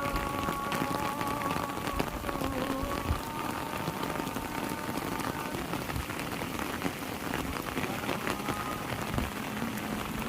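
Heavy rain falling steadily, pattering on surfaces, with many separate drops ticking through the downpour.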